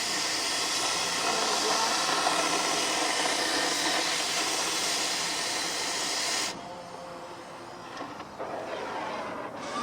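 Gas heating torch flame hissing steadily, then shut off abruptly about six and a half seconds in, leaving quieter shop noise with a couple of faint knocks.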